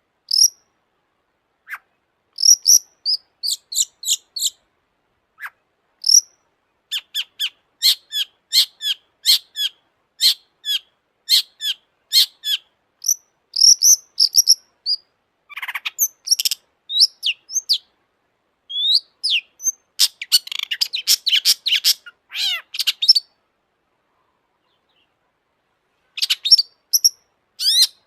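Long-tailed shrike (cendet) singing: fast bursts of sharp, high chirps and rattling trills, with short gaps between phrases. It stops for about three seconds near the end, then starts again.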